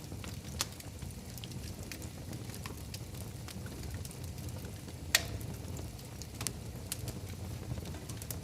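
Wood fire in a fireplace crackling: scattered small pops over a low steady rumble, with one sharp, loud pop about five seconds in.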